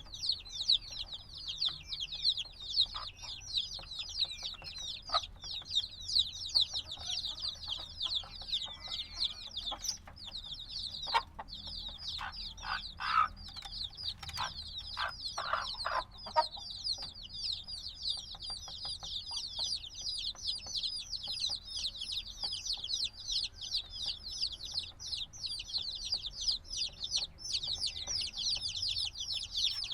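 A brood of baby chicks a few days old peeping nonstop, many high chirps overlapping in a dense chorus. A short run of soft taps sounds about halfway through.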